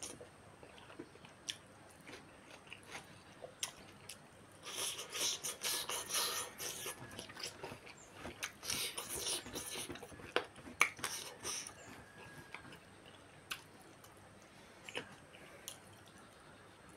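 A person chewing rice and chicken close to the microphone: two spells of busy chewing, a few seconds in and around the middle, with scattered sharp clicks in between.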